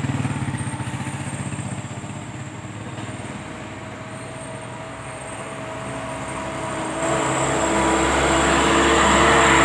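Vehicle with a loud aftermarket exhaust: a pulsing engine note eases off, then a steady pitched howl from the exhaust builds and grows much louder about seven seconds in.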